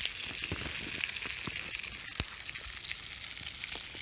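Food frying in a pan over a campfire: a steady sizzle with scattered sharp pops, one louder pop about two seconds in.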